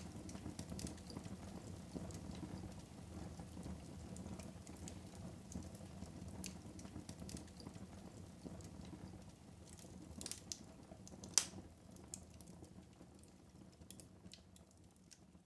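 Wood fire burning in a fireplace: a steady low rumble of flames with scattered crackles and pops, one sharp pop a little past the middle. The sound slowly fades over the last few seconds.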